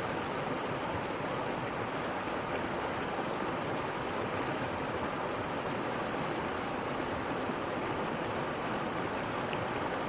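Waterfall: steady, even rush of falling and splashing water with no breaks.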